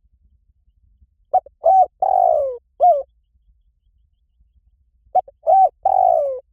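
Spotted dove cooing twice, about four seconds apart. Each call is a few short coos and one longer coo that falls in pitch, ending on a short final coo.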